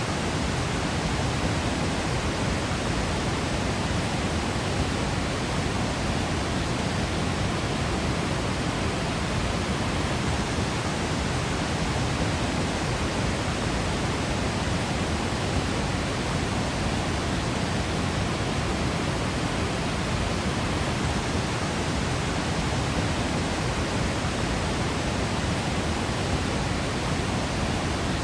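A waterfall's steady, unbroken rush of falling water, even throughout, with the most weight in the low rumble.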